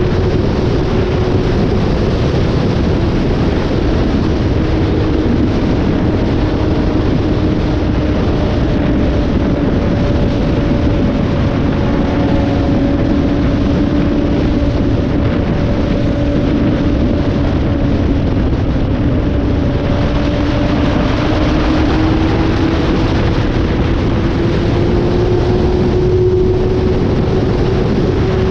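Motorcycle engine running at a steady cruise, its tone drifting slightly in pitch, under loud wind rush on the microphone.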